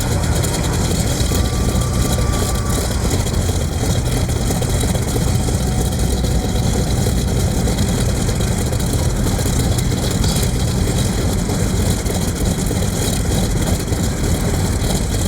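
Mitsubishi A6M Zero's radial engine running steadily on the ground just after start-up, with an even, unchanging level.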